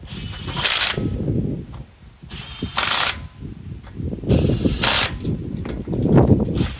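Ratchet wrench clicking in short strokes, one about every two seconds, with knocks and handling noise between the strokes.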